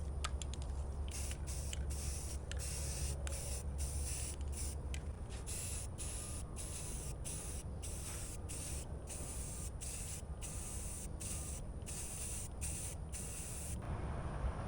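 Aerosol can of rust reformer spraying in a long series of short bursts, a little more than one a second, which stop shortly before the end.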